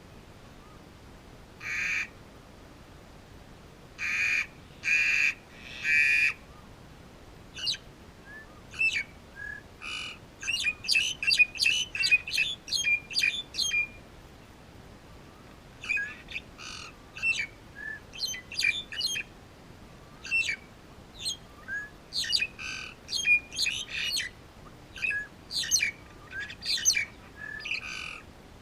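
Birds calling: a few loud, harsh squawks in the first six seconds, then a long run of quick chattering and whistled calls.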